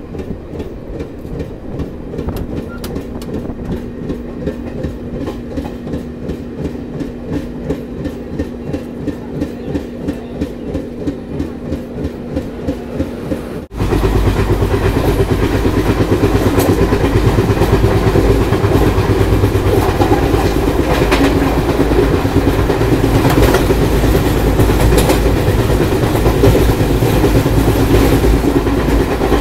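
Express train running on the line, its wheels clicking over the rail joints about twice a second over a steady hum. About halfway through, the sound cuts abruptly to a much louder, rougher rush of running noise.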